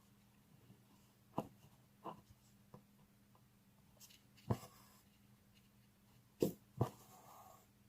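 Needle piercing taut fabric stretched in an embroidery hoop: sharp taps at irregular intervals, two close together near the end, some followed by a short rustle of thread drawn through. A faint steady hum runs underneath.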